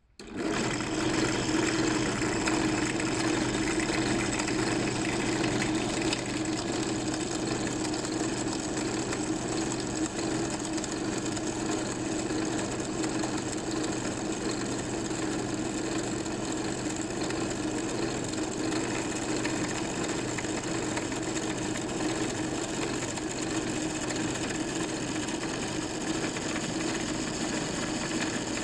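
Power drill starting up abruptly and running steadily as it bores into a material, with a steady motor hum. It is a little louder for the first few seconds, then settles at an even level.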